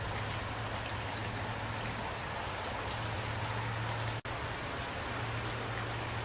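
Steady rain falling, with a low steady hum underneath. The sound cuts out for a split second about four seconds in.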